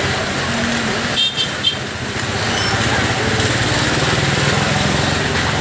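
Heavy vehicle engine labouring steadily as it works round a hairpin bend, with a couple of short high squeaks about a second in.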